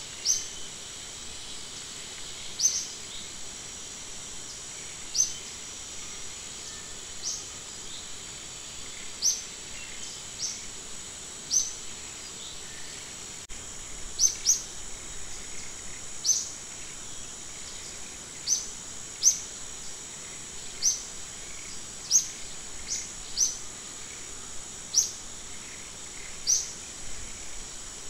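A bird calls in short, sharply rising chirps, repeated irregularly every one to two seconds, over a steady high-pitched insect drone.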